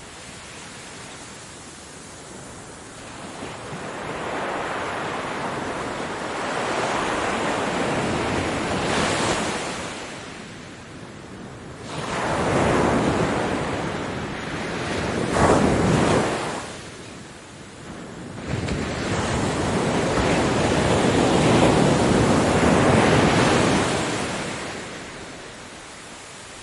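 Ocean waves breaking on a beach: several surges of surf swell and wash in, each hissing away before the next, one sharp crash about halfway through.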